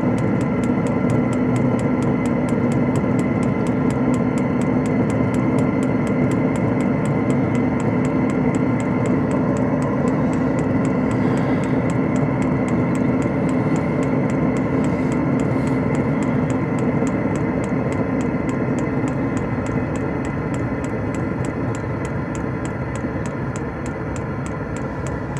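Diesel air heater running with a steady fan whir and hum, over fast, regular ticking; the hum eases off near the end. The new fuel line has not yet primed through to it.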